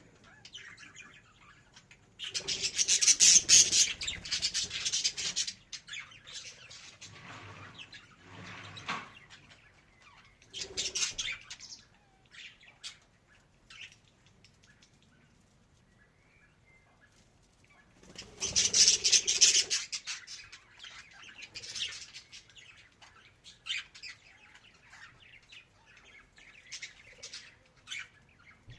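Budgerigar chirping and warbling in short scattered calls, with two loud, busy stretches: one starting about two seconds in and lasting about three seconds, and another around eighteen seconds in.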